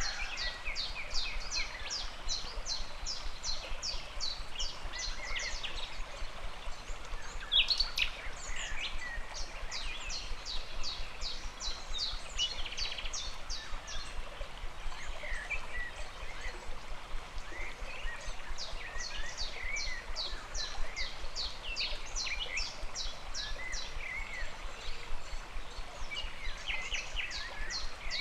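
A river flows with a steady rush under birdsong. One bird repeats a short, high, falling note about three times a second in long runs, and other birds chirp in between.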